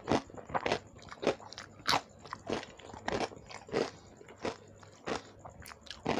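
Close-miked chewing of a mouthful of rice and shrimp curry: a steady rhythm of sharp, wet mouth clicks about every two-thirds of a second.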